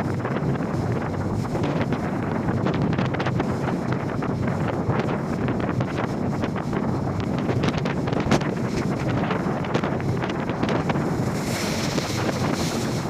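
Strong wind buffeting the microphone over heavy waves: a steady rush of wind and water broken by scattered sharp slaps and knocks, the loudest about eight seconds in.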